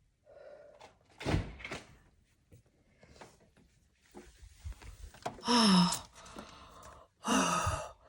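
A freezer being opened, with thunks and knocks as frozen bags of breast milk are moved around. Two sharp knocks come early, and two louder bursts come near the end.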